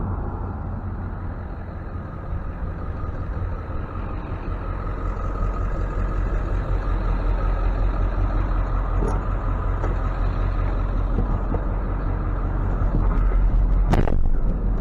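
Tow truck engine running steadily, rising slightly in loudness, with a sharp knock near the end.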